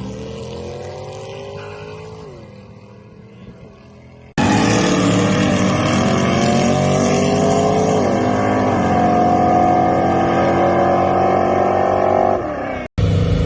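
Drag-race cars accelerating hard down the strip, each engine climbing in pitch through the gears. The first car pulls away and fades. Then a louder, closer pass climbs, drops at a gear shift partway through, and runs on until it cuts off near the end.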